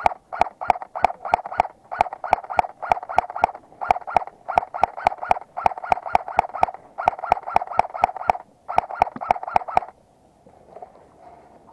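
Airsoft gun fired in rapid single shots, about four a second in short strings, each shot a sharp crack with a brief mechanical whir; the firing stops about ten seconds in.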